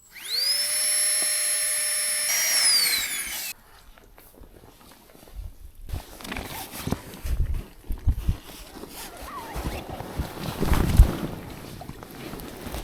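Small electric air pump inflating a pack raft: it spins up with a rising whine, runs steadily for about three seconds, then winds down in pitch and stops. Afterwards, rustling and a few low thumps as the raft is handled.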